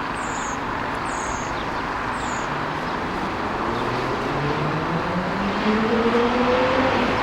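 Jet airliner coming in to land, a steady wash of engine noise growing louder, with humming tones that rise in pitch from about halfway through. A few short, high chirps sound in the first couple of seconds.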